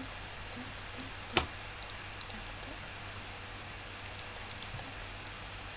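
A single sharp click about a second and a half in, then a quick run of small clicks and taps around four seconds in, over a steady low hum.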